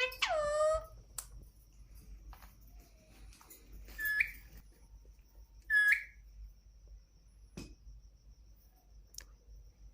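Indian ringneck parakeet calling: a falling whistled call at the start, then two short sharp calls about four and six seconds in, with a few faint clicks between.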